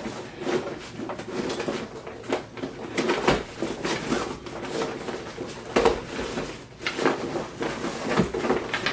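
Handling noise as a roller skate is packed into a fabric skate bag: irregular rustling, scraping and knocks.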